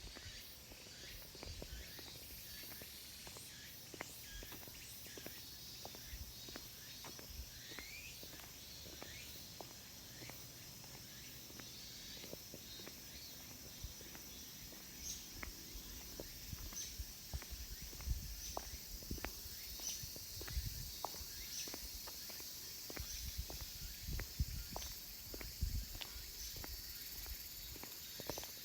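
Cicadas calling in a steady high-pitched chorus, with footsteps of someone walking, as soft thuds and light clicks, more regular in the second half.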